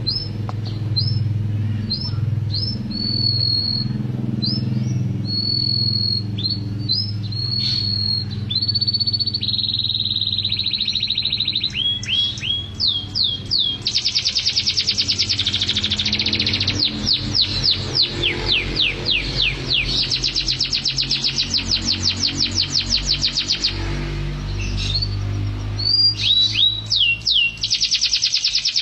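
Domestic canary singing continuously: sweeping chirps and held whistled notes, then long, fast rattling trills of rapidly repeated notes from about halfway through. A steady low hum runs underneath.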